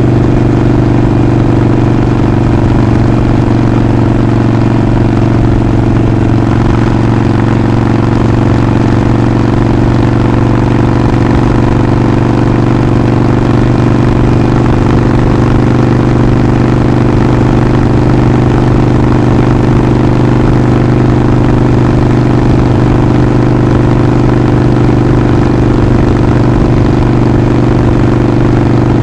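Harley-Davidson Sportster 48's 1200 cc air-cooled V-twin running at a steady, unchanging engine speed, its exhaust note even and loud.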